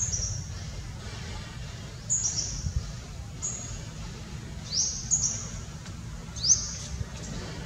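Birds chirping: short, very high-pitched calls scattered through, most falling in pitch, with two quick rising sweeps in the second half, over a steady low rumble.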